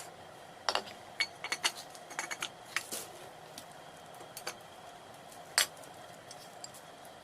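A string of light metallic clinks and taps, with a louder knock about five and a half seconds in: ceiling fan metal parts being handled and fitted together as the armature is seated into the fan body.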